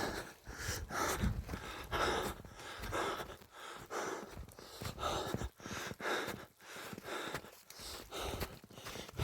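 A person breathing hard, with a noisy breath about once a second.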